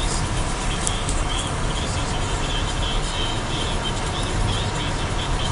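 Car driving, heard from inside the cabin: a steady rumble of road and tyre noise.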